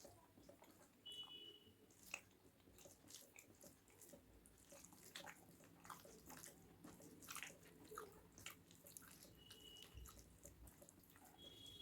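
Faint close-up chewing of a mouthful of rice and curry, with irregular wet mouth clicks and smacks. Two brief high tones sound about a second in and again near the end.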